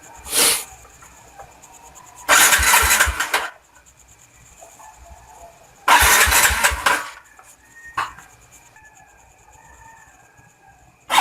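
Yamaha Crypton Z single-cylinder four-stroke engine being cranked in two attempts of about a second each. It stops each time without running on, as a motorcycle that won't start. A brief hiss comes just after the start.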